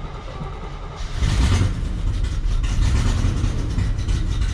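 Vehicle engine running, growing louder about a second in and staying loud.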